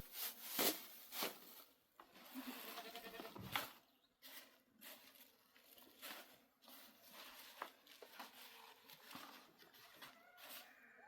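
Faint bleating from a grazing flock of sheep and goats, a few short calls among scattered clicks and knocks.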